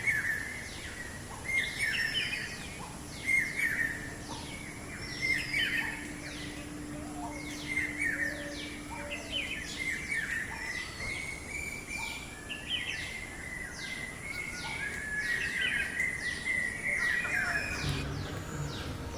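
Parakeets calling: a steady stream of short, sharp chirps with harsher squawks among them.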